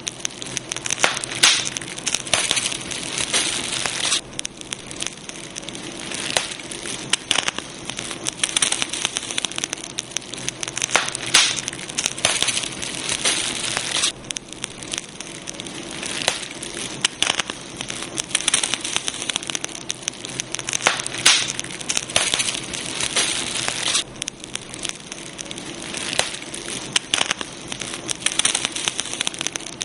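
Campfire burning, the wood crackling steadily with frequent sharp pops.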